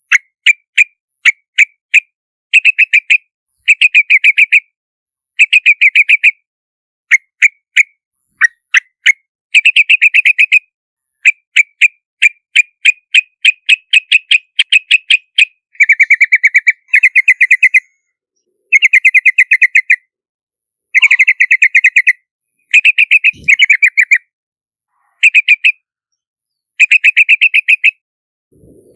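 Yellow-vented bulbul calling in quick runs of short, sharp notes. Some notes come singly and evenly spaced, others in dense chattering bursts about a second long, with brief silent gaps between.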